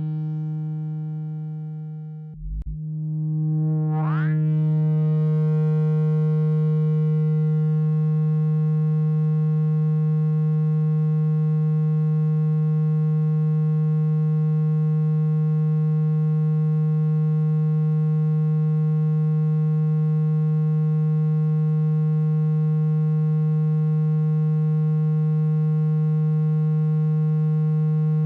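Electronically generated low buzzing tone, played through a phone speaker to shake water out of it. It holds one steady pitch, drops out briefly about two and a half seconds in, and a rising sweep passes over it about four seconds in.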